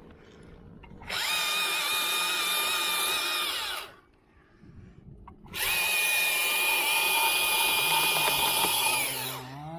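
Chainsaw at full throttle cutting a limb in two bursts of about three seconds each, with a short pause between; near the end the engine winds down as the throttle is released.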